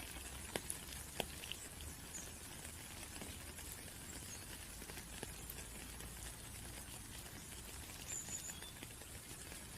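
Steady rain falling, an even hiss scattered with the sharp ticks of individual drops, a few louder drops in the first second or so.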